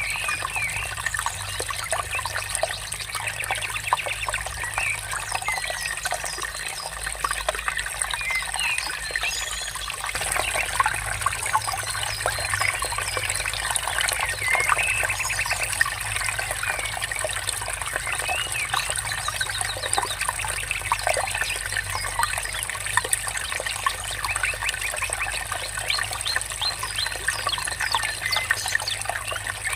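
Water trickling steadily, with several small birds chirping and trilling over it.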